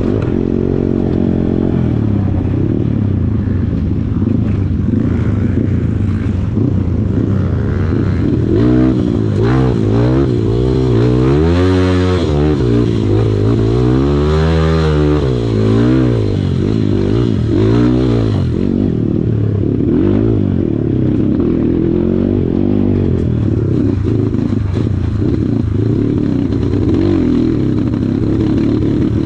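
Kawasaki KLX140 dirt bike's single-cylinder four-stroke engine running hard off-road, its revs swinging up and down over and over through the middle, with some clatter.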